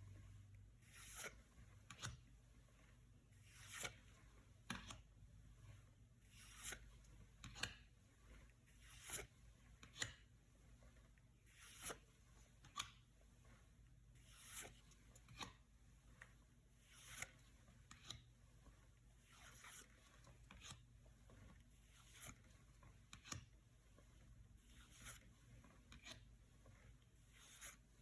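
Yu-Gi-Oh trading cards sliding against one another as they are flipped through one at a time, a soft swish about once a second.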